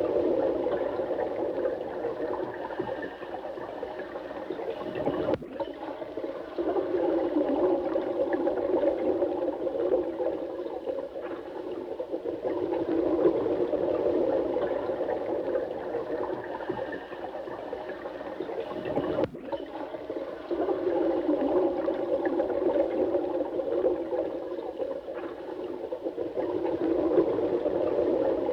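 Running water flowing steadily with a full, low rush and a gurgling texture, swelling and easing slowly. It breaks off for an instant twice, about 14 seconds apart.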